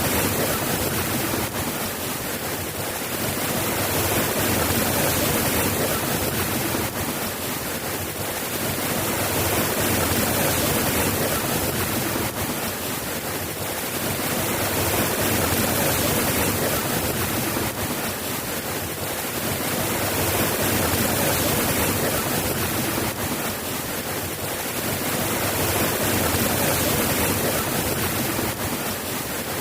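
Steady soft rain, an even hiss that swells and eases slowly about every five to six seconds.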